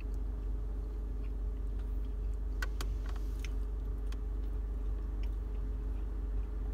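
Steady low hum of a car with its engine running, heard inside the cabin, with a few steady tones in it. A few short clicks near the middle come from biting into and chewing a sandwich.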